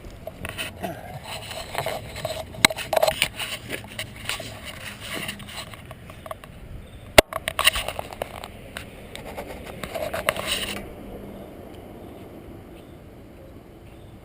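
Irregular scraping and rustling with scattered clicks, one sharp click about seven seconds in; it settles to a quiet background near the end. The engine has not started yet.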